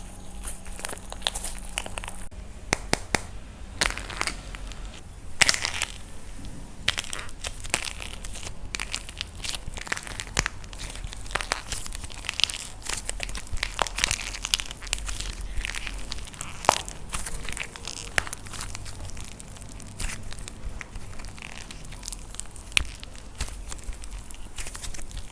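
Dried plaster clay being crushed and crumbled by hand: a dense, irregular run of crunchy crackles and pops, with a few louder cracks.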